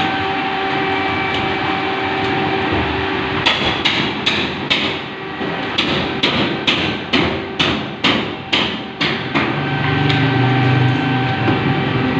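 A hammer striking sheet-metal ducting about a dozen times, roughly two blows a second, over a steady background hum.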